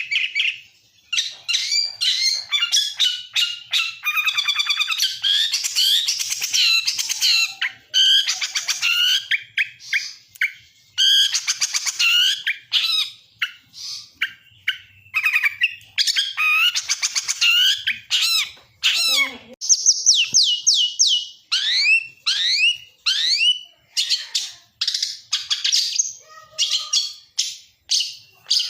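Lacer songbird singing a long, varied song: rapid trills and harsh chattering phrases, with a run of quick sweeping whistles about two-thirds of the way through. It is a 'pancingan' bait song, the kind played to caged birds to prompt them to sing.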